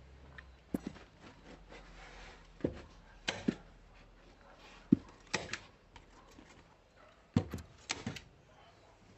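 Irregular knocks and thuds of hand tool work, about ten over several seconds, some coming in quick pairs.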